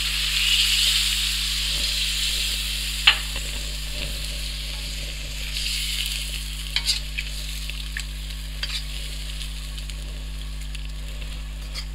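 Chicken frying in butter in an iron karahi, sizzling hard as half a glass of water hits the hot fat, the sizzle slowly settling. A sharp metal clink comes about three seconds in, with lighter clinks later as the chicken is stirred with a metal skimmer.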